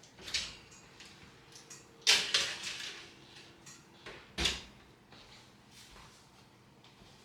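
A few sharp knocks and clatters of things being handled: one about half a second in, the loudest about two seconds in with a short rattle after it, and another at about four and a half seconds.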